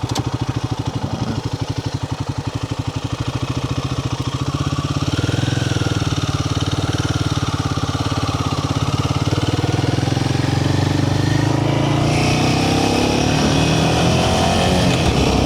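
Royal Enfield Himalayan 450's single-cylinder engine running under way, with an even, pulsing beat at low revs. In the last few seconds the engine note climbs as the bike accelerates, and more rushing noise comes in.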